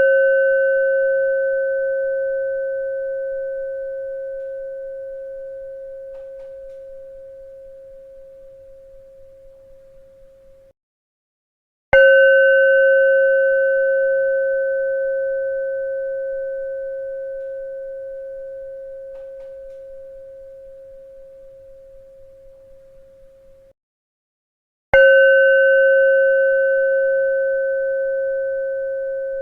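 A struck bell ringing one steady pitch with fainter higher overtones, struck again about every thirteen seconds. Each strike starts sharply, fades slowly for about twelve seconds, then cuts off abruptly, leaving a moment of silence before the next strike.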